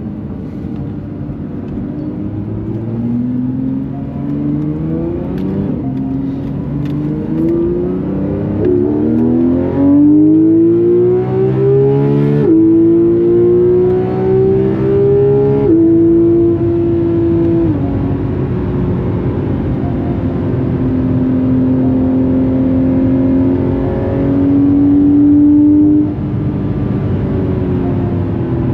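Porsche 991.2 GT3 RS's naturally aspirated 4.0-litre flat-six accelerating, its pitch climbing through the gears with three quick upshifts in the middle. It then holds steadier revs before dropping sharply near the end.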